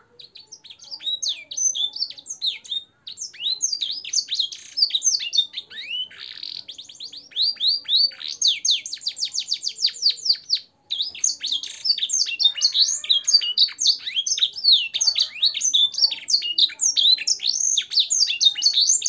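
Canary singing a long, fast song of chirps and falling whistled notes, with a rapid trill of evenly repeated notes near the middle and two brief breaks. The song is filled with phrases copied from blackthroat and sanger songs.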